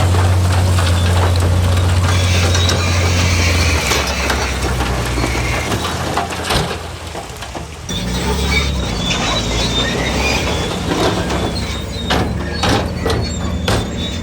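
Heavy diesel earthmoving machinery running, with a deep engine drone that changes and drops about four seconds in, and scattered metallic clanks and knocks throughout.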